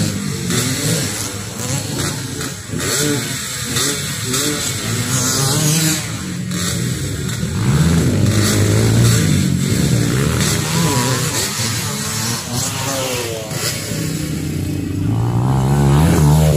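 Motocross dirt bike engines revving hard and easing off again and again, the pitch climbing and dropping as the bikes race around the track.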